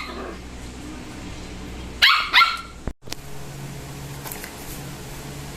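A dog barking twice in quick succession about two seconds in, followed by a low steady hum.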